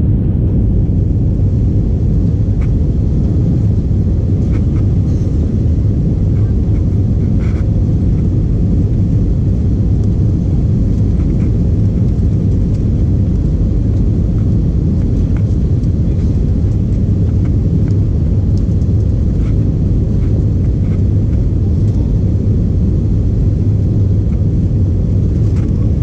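Airbus A320-232 cabin noise: a steady, loud low rumble of the engines and airflow, unchanging throughout, with a few faint ticks.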